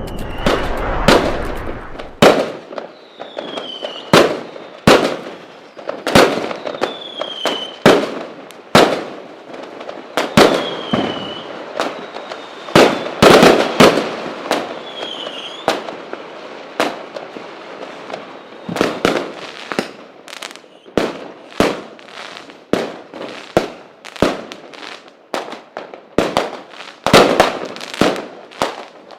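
Fireworks display: a long, irregular run of sharp bangs, at times several a second. Four short falling whistles come in among them during the first half.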